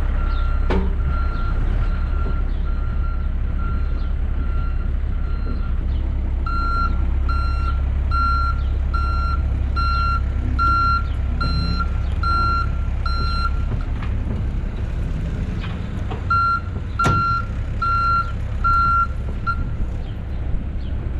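Backup alarm on a John Deere 60G compact excavator beeping steadily over its diesel engine running, as the machine travels on the trailer. The beeping stops for a few seconds past the middle, then resumes briefly. A sharp metallic clank comes near the start and another about three-quarters through.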